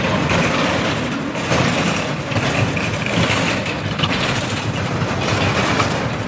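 Busy night-market din dominated by a steady, loud engine-like rumble.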